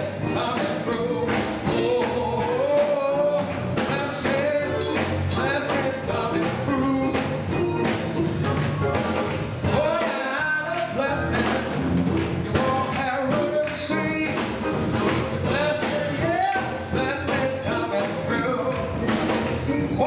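Gospel choir singing with instrumental accompaniment and frequent percussion strokes.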